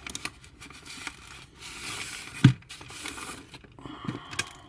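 A cardboard model-train box being opened and its plastic packaging handled: rustling and crinkling with scattered small clicks, and one sharp knock about two and a half seconds in.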